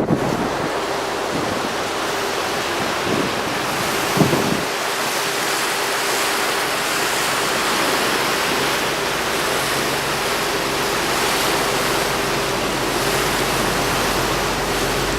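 A tour boat under way, with a steady rush of wind and water and the engine's low, even drone underneath. There is a brief thud about four seconds in.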